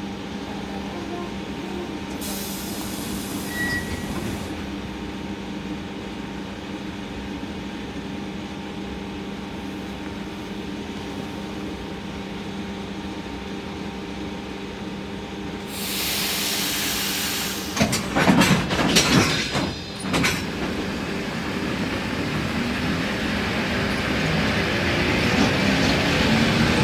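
ED4M electric train at a station: a steady electric hum with short bursts of air hissing, then loud clattering about two-thirds of the way in. After that, rolling wheel noise and motor whine grow louder toward the end.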